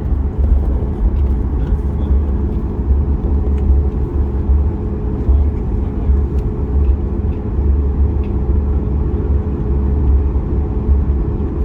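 Cabin noise of a Boeing 737 MAX 8 taxiing: its CFM LEAP-1B engines running at low taxi thrust with a steady hum, over an uneven low rumble from the aircraft rolling along the taxiway. Small light rattles tick through it now and then.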